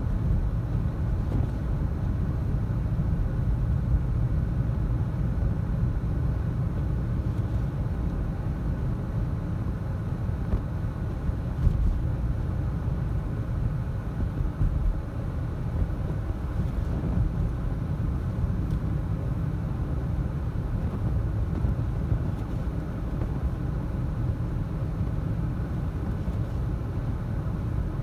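Steady low rumble of road and tyre noise heard inside a car's cabin, from Michelin CrossClimate 2 tyres rolling at about 35 mph on a snow-covered highway.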